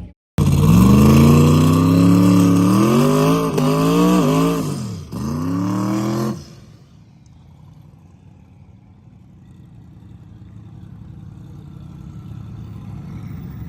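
A drag car's V8 engine at full throttle, its pitch climbing steadily, wavering twice, dropping sharply about five seconds in as it shifts, then climbing again. It cuts off abruptly about six seconds in, leaving a quieter low rumble that slowly grows louder.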